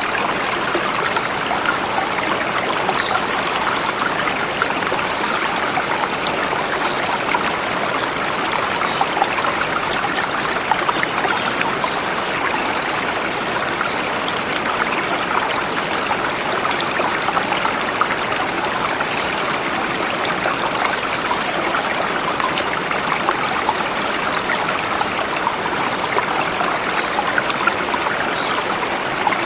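River flowing over rocks, a steady, even sound of running water.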